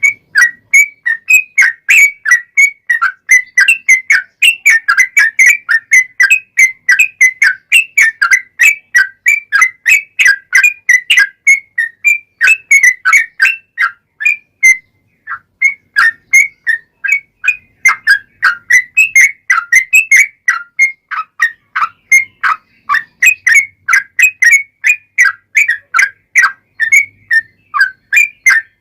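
Yellow-vented bulbul (trucukan) singing a long, rapid run of short chirpy whistled notes, about three or four a second, with a brief pause about halfway through.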